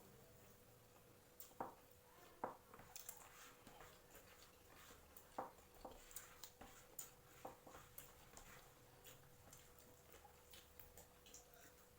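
Quiet eating sounds: scattered faint clicks and taps of eating from plates, coming more often after the first few seconds, over a faint steady hum.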